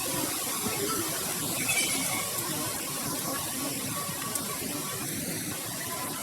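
Strong wind blowing through the trees, a steady rushing noise.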